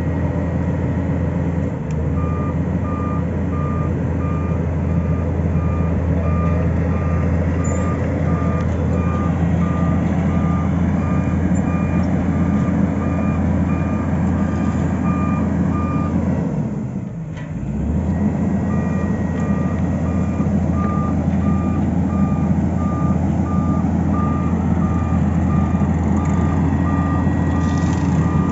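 A heavy road-works vehicle's reversing alarm beeps steadily over the low drone of its engine. The beeping and the engine drop out for a couple of seconds just past the middle, then the beeping resumes.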